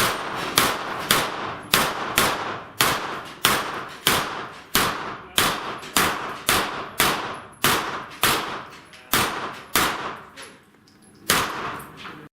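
A pistol-calibre firearm firing a string of about twenty shots at steel plate targets, roughly two shots a second, each with a short ringing tail. After a pause of about a second near the end comes one last shot.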